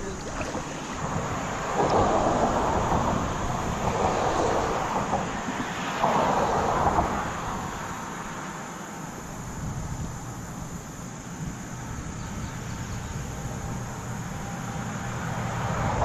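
A low, steady rumbling noise that swells twice in the first half and again near the end.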